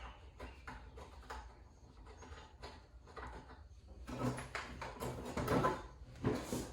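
Scattered clicks and knocks of car parts and tools being handled during a teardown, with a busier, louder stretch of clattering from about four seconds in.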